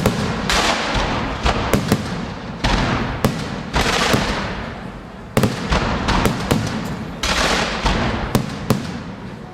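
Aerial fireworks bursting overhead: a rapid run of sharp bangs, each followed by a long crackling hiss as the shells' stars fall and fade, with fresh clusters of reports about a second and a half in, at about five seconds, and again near seven seconds.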